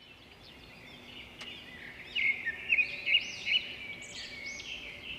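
Small birds chirping: many short, quick rising-and-falling calls overlapping, getting louder about two seconds in.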